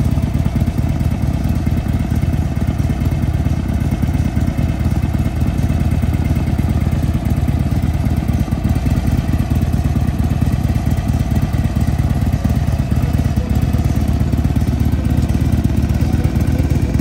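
Harley-Davidson motorcycle's V-twin engine idling steadily close by, a low, even engine sound with no revving.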